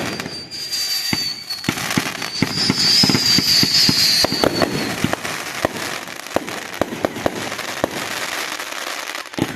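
Fireworks going off: many sharp, irregular bangs and crackles, with a high whistling tone through the first half.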